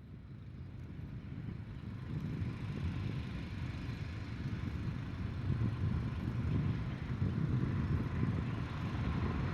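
A train approaching along the main line, its low rumble growing steadily louder.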